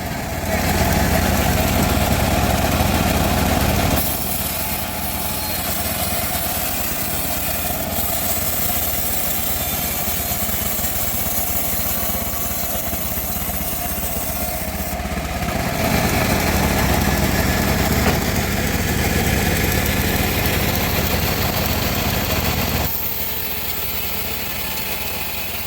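Homemade log bandsaw mill running with a steady engine-like hum, its loudness stepping up and down abruptly a few times.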